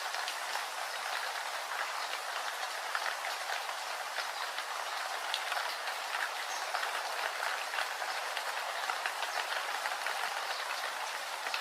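Steady rain falling, an even hiss of drops peppered with many small individual drop ticks.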